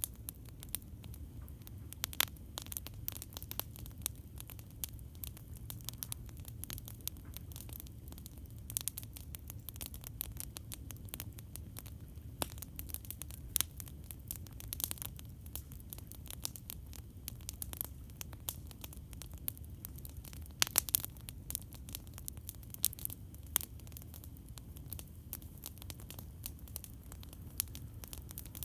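Campfire crackling: frequent sharp pops and snaps over a steady low rumble, with a quick cluster of louder pops about two-thirds of the way through.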